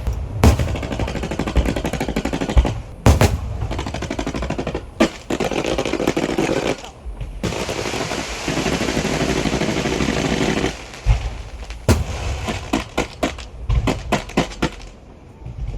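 Strings of firecrackers going off in fast crackling volleys, with louder single bangs standing out about a second in, around three seconds and near twelve seconds; the crackle thins to scattered pops near the end.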